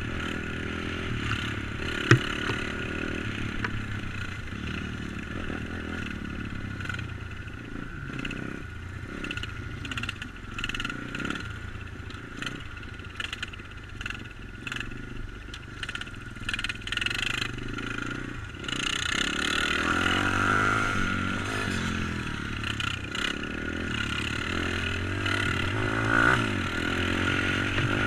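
Tuned YX 140cc single-cylinder four-stroke engine of a Stomp Z140 pit bike being ridden, revving up and down, with a sharp knock about two seconds in.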